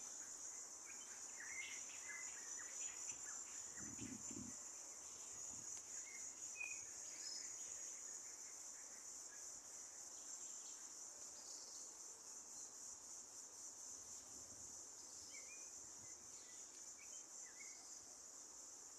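Faint, steady high-pitched trilling of an insect chorus, with a few short, faint bird chirps scattered through it.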